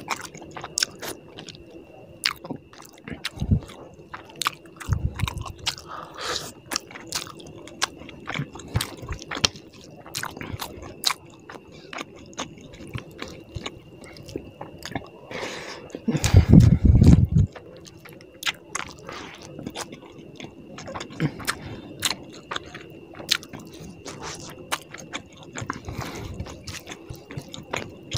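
Close-miked chewing of a mouthful of rice and fish curry, with many wet clicks and lip smacks, and squishing as fingers mix rice and curry on the plate. A louder, low muffled burst lasts about a second around the middle.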